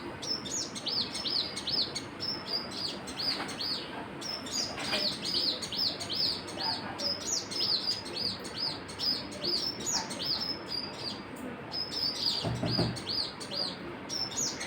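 A group of small birds chirping: a dense, unbroken run of short, high chirps, several a second. A brief low sound comes through about three-quarters of the way in.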